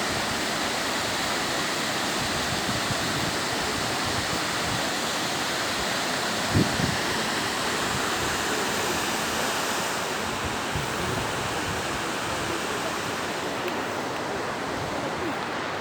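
Waterfall: a steady rush of falling water, with a brief low bump about six and a half seconds in.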